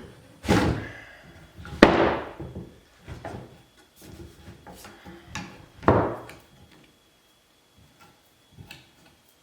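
Hollow knocks and clunks of a PVC pipe and rubber tire being levered onto a band saw wheel: three hard thumps about half a second, two seconds and six seconds in, with lighter taps between, then the knocking stops.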